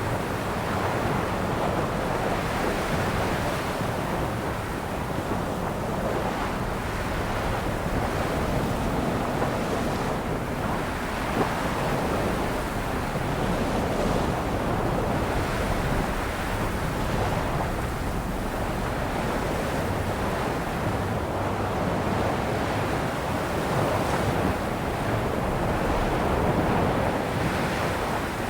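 Sea waves breaking and washing onto a shore, a steady rush of surf that swells and eases every few seconds, with some wind on the microphone.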